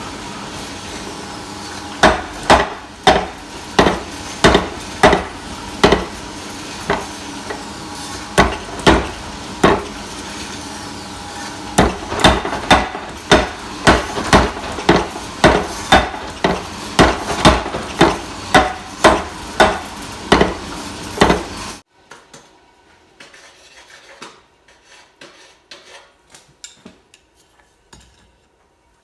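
Hand hammer striking hot steel on an anvil while forging a knife blade: a long series of sharp blows, about one to two a second, over a steady rushing noise. It all stops abruptly about 22 seconds in, leaving only faint light clicks.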